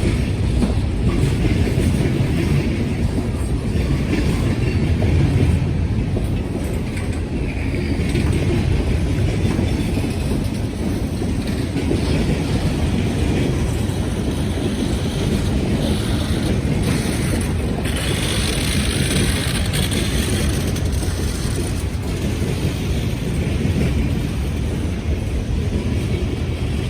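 BNSF freight train rolling past, a steady rumble of its cars' wheels on the rails.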